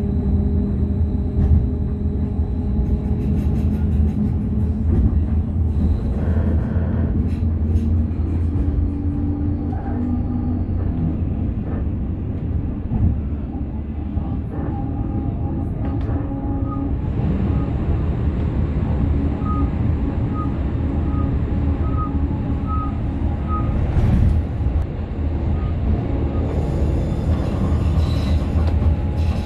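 Passenger train running at speed, heard from inside the carriage: a steady low rumble with a humming drone. About two-thirds of the way in comes a run of about seven short, faint, evenly spaced beeps.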